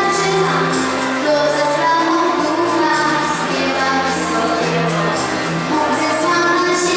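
A Christmas carol performed live: mainly female voices singing over instrumental accompaniment with a bass line.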